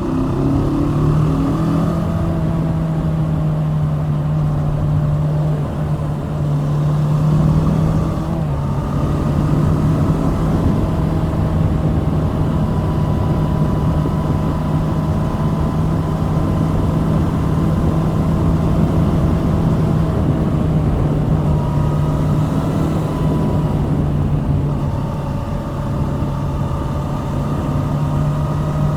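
Kawasaki Z650's 649 cc liquid-cooled parallel-twin engine pulling the bike along at a steady engine speed, its note holding level.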